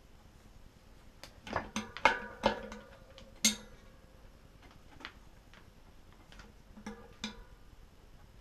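Metal hub parts and tools clinking and tapping on a workbench: a quick cluster of sharp knocks with a brief metallic ring, then a few scattered clicks.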